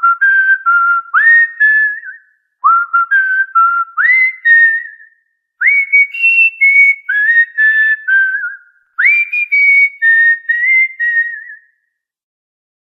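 Cockatiel whistling a short tune in four clear phrases. Each phrase opens with a quick upward swoop and steps between a few held notes, and the whistling stops shortly before the end.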